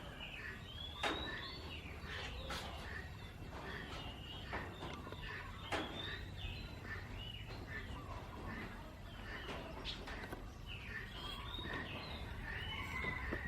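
Many short chirping calls, repeated and gliding up and down in pitch, over a steady outdoor background, with a few sharp clicks near the start and about six seconds in.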